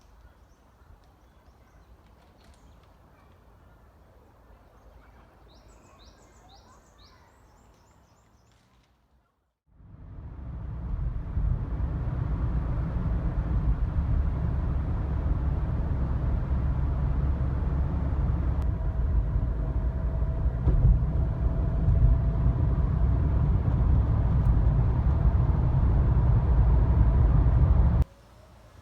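Faint outdoor ambience with a few short, high bird chirps. After a brief cut, a loud, steady low rumble builds up quickly and then stops abruptly near the end.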